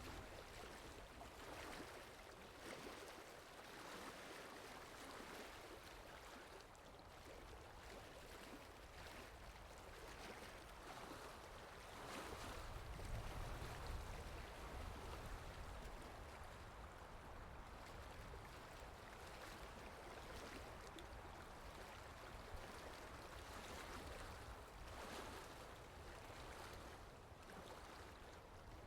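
Faint rain ambience: a steady wash of soft noise that swells a little and grows louder for a few seconds near the middle.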